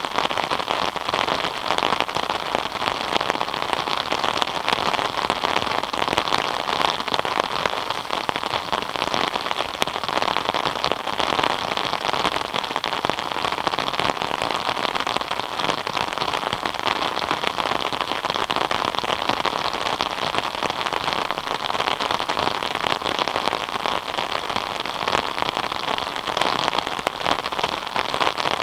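Steady rain falling, a dense, even patter of many drops that neither builds nor eases.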